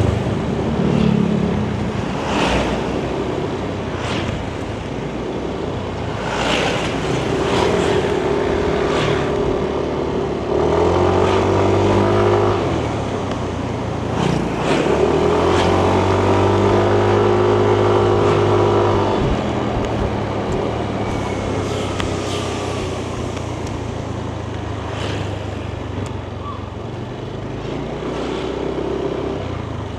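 Yamaha Nmax 155 scooter's single-cylinder engine running under way, heard from the rider's seat with road and wind noise. Its note climbs and then holds steady twice, about ten and fifteen seconds in, before settling back.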